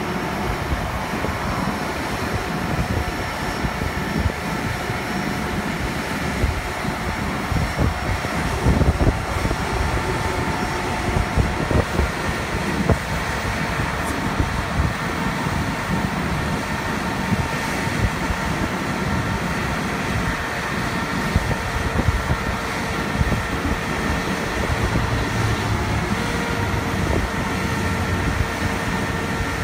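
Diesel engine of a Cat TL1255C telehandler running steadily, with a few steady whining tones over the engine noise and a low hum setting in near the end.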